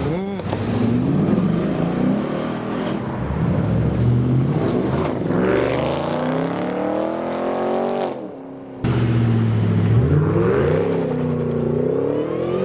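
Mercedes-AMG SLS Roadster's V8 pulling away, its revs climbing steeply. The sound cuts off suddenly about eight seconds in, then a car engine comes back revving up and down.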